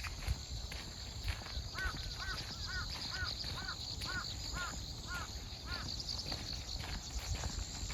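A bird calling in a quick series of short, arched calls, two or three a second, over the steady high chirring of grass insects.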